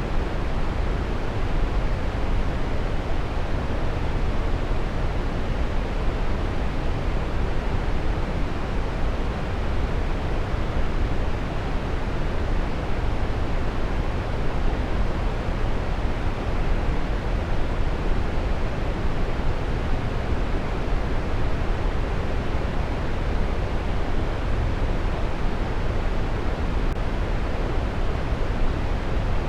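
Waterfall: water falling and splashing in a steady, unbroken rush, deepest in the low end.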